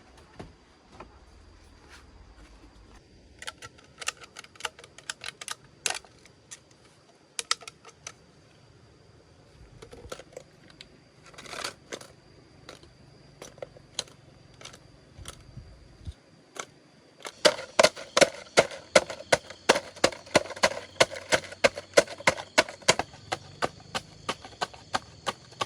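A knife chopping food on a cutting board. It starts as scattered taps, then from about two-thirds of the way in becomes a fast, even chopping of about four strokes a second.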